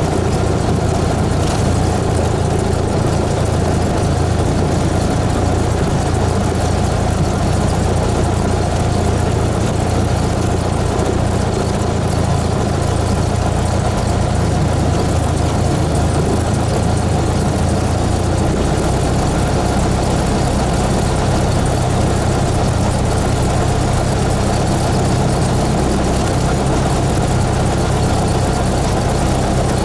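Cessna 172S's four-cylinder Lycoming engine and propeller running steadily with a constant drone. Its low note shifts slightly about 19 seconds in.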